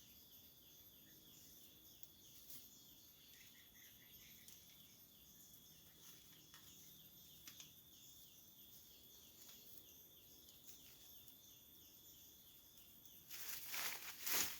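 Faint forest ambience: insects droning steadily at several high pitches, with a quick chirping call repeated about three times a second in the first few seconds. About a second before the end, loud rustling and crunching starts.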